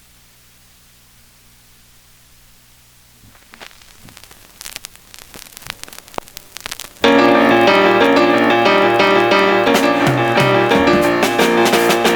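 A faint hum and hiss, then scattered clicks, then about seven seconds in a 1972 pop recording starts loudly with piano and a full band.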